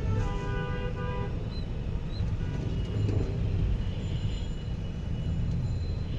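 Vehicle horn sounding several quick toots in the first second or so, over the steady low rumble of a car driving in traffic.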